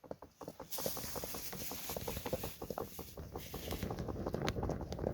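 Rekindled campfire crackling and popping in many irregular sharp snaps, with a rushing hiss for about three seconds in the middle.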